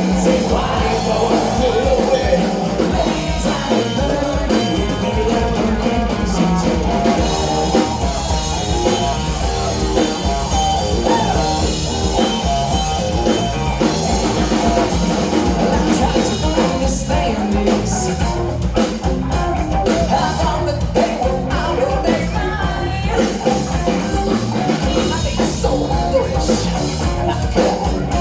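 A live rock band playing a song: drum kit, guitar and singing at a steady, loud level.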